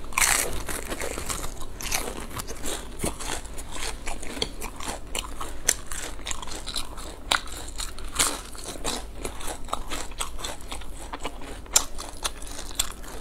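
Close-miked biting and chewing of a crisp fried battered skewer snack: dense, irregular sharp crunches, with the loudest bites just after the start and again near the end.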